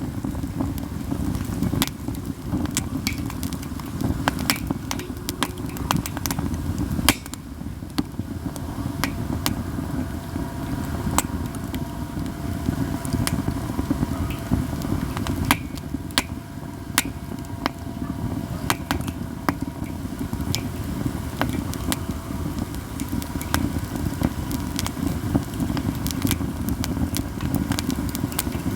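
Katsura wood fire crackling steadily, with frequent sharp pops and a few louder snaps, over a low steady rumble.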